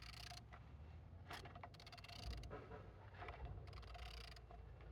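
Peugeot-Citroën TU3A (KFV) 1.4-litre four-cylinder petrol engine being turned over by hand, giving faint scraping strokes about five times. The engine turns freely.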